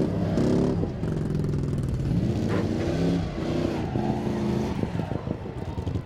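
Demolition derby car engines revving up and down, with a cluster of short sharp knocks near the end.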